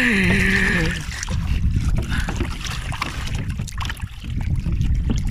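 Water rushing along a kayak's hull and wind buffeting the microphone as the kayak is towed at speed, opening with a short strained groan from a man in the first second.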